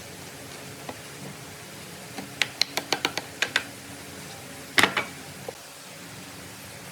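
A quick run of sharp clicks or knocks, about eight in just over a second, then a louder clattering knock about five seconds in and one last small knock, over a steady low hiss.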